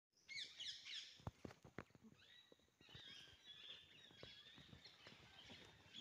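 Faint birdsong: a quick run of chirps in the first second, then thinner high calls, over a few soft scattered clicks and knocks.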